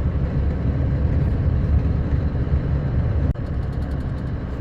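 Sanding truck's engine running steadily, with tyre and road rumble, heard from inside the cab while driving. There is a brief sharp drop in level a little over three seconds in.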